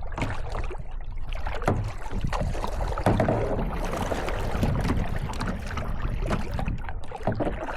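Kayak paddling on a lake: paddle strokes and splashes in the water with scattered sharp knocks, over a steady low rumble of wind on the microphone.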